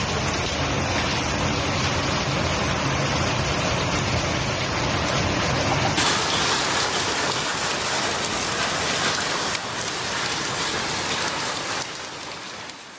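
Heavy rain pouring down in a storm, a dense steady hiss of falling water. About six seconds in it changes abruptly to a brighter, slightly different downpour, which fades out at the very end.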